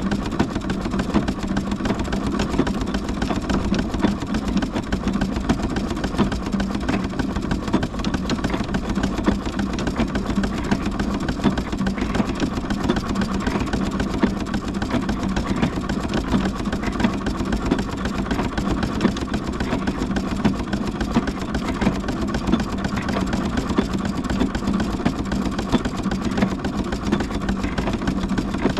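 Steam traction engine running steadily: a constant mechanical noise with a steady low hum.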